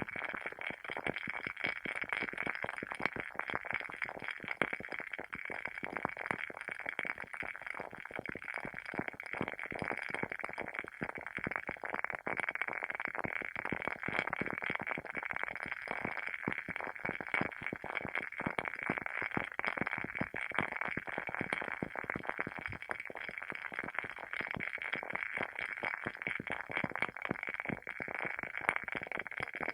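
WoodWick candle's wooden wick crackling as it burns: a dense, continuous run of small pops and crackles, like a tiny campfire.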